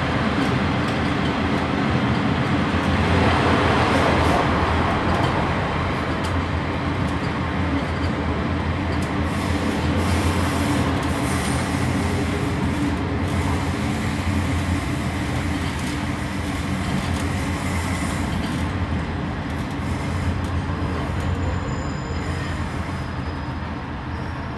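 Interior running noise of a Class 142 Pacer, a two-axle diesel railbus, on the move: a steady rumble of engine and wheels on rail, getting a little quieter near the end.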